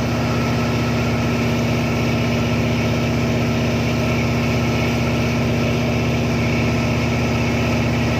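A tugboat's diesel engine running steadily under way: a constant, even drone that does not change in pitch.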